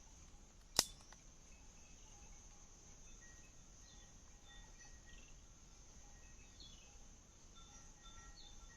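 Forest insects droning steadily on a high note, with short bird chirps, broken about a second in by one sharp click that rings briefly, followed by a fainter second click.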